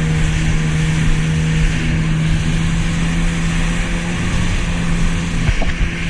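Jet ski engine running at a steady throttle, its hum held at one pitch under a rush of wind and water spray.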